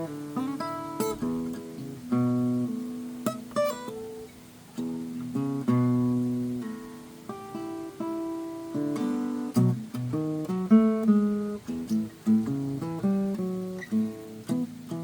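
Steel-string acoustic guitar playing blues: a run of plucked single notes and chords, each note ringing and fading before the next.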